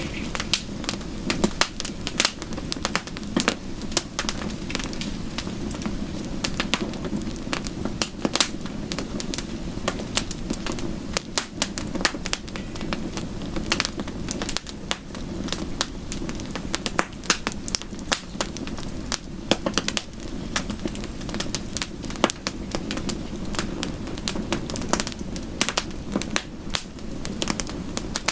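Wood fire crackling in a fireplace, with many irregular sharp pops and snaps over a steady low rushing sound of rain.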